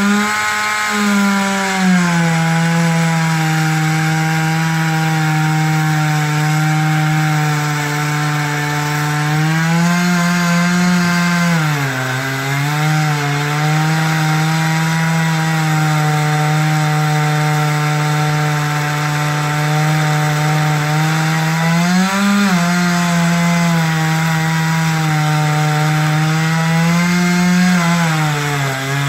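Chainsaw engine running at high speed while cutting into a tree, its pitch sagging under load about twelve seconds in and briefly again twice near the end, then picking back up.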